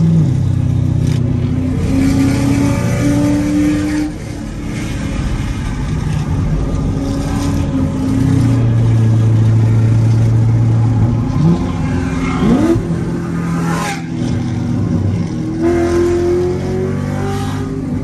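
A C7 Corvette's V8 engine heard from inside the cabin at highway speed, its pitch climbing and falling as it accelerates and eases off, with two quick rising revs about twelve seconds in.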